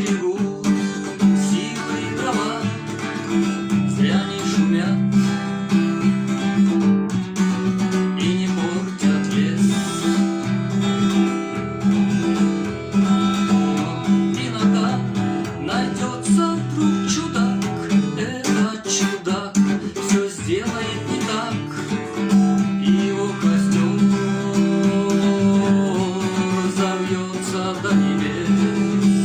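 Acoustic guitar playing an instrumental passage of a song, chords strummed and notes picked over a steady bass note.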